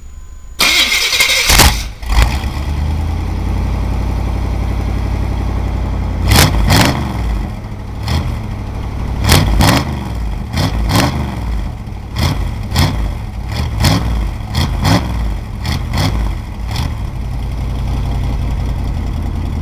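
A 1993 Chevy Silverado's rebuilt 350 small-block V8, bored 30 over, cranks for about a second, starts and settles into a steady run. From about six seconds in, the throttle is blipped about a dozen times, the revs rising and falling quickly each time.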